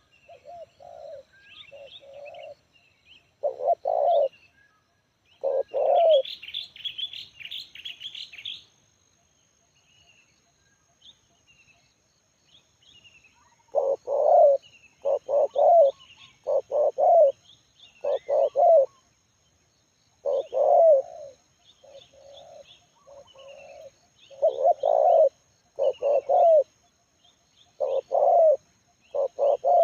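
Spotted dove (tekukur) cooing in repeated phrases of short coos: a few early on, then a pause of several seconds, then a long steady run of coos from about halfway through. Smaller birds chirp higher in the background, with a burst of chirping about six to nine seconds in.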